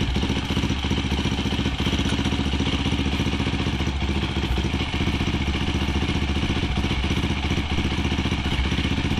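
2006 KTM SMC 625's single-cylinder four-stroke engine idling steadily just after a cold kick start, with the choke on.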